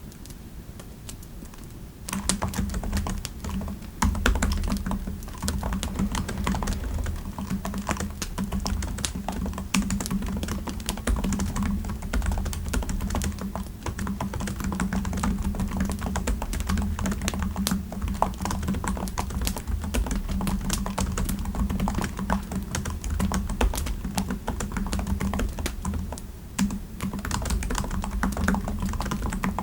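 Typing on a computer keyboard: a few scattered keystrokes, then rapid, continuous typing from about two seconds in.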